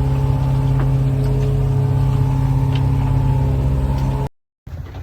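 Sailing yacht's inboard engine running steadily at constant speed, a loud even hum; it cuts off abruptly about four seconds in.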